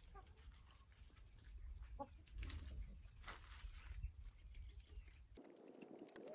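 Chickens clucking faintly a few times, over a low rumble with scattered light clicks.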